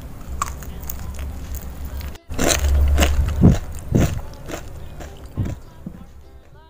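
Chewing crispy flour-coated fried chicken close to the microphone: a run of crisp crunches starting about two seconds in and fading out near the end.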